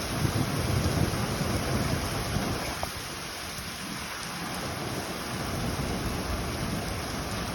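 Thunderstorm noise: a steady hiss of rain and wind, with a low rumble through the first two or three seconds that then eases.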